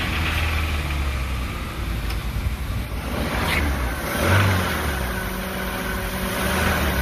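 Toyota Corolla four-cylinder engine running while engine-cleaning foam is fed into its intake, with the engine note swelling briefly about four seconds in.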